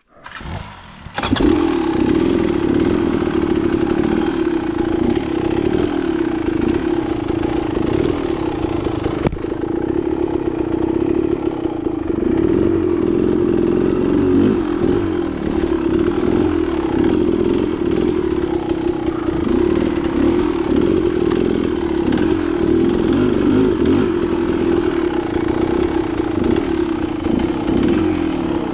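Dirt bike engine starting about a second in, then running steadily at a fairly constant pitch, with small ups and downs in throttle.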